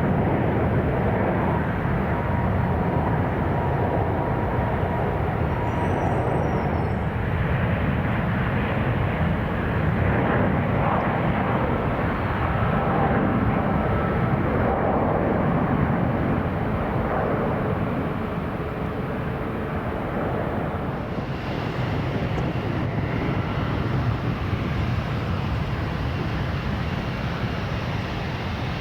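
Airbus A350-900's Rolls-Royce Trent XWB jet engines running at high power as the airliner departs, a steady loud jet noise. About two-thirds of the way through it cuts to a Boeing 777-300ER's GE90 engines as that airliner arrives, slightly quieter and hissier.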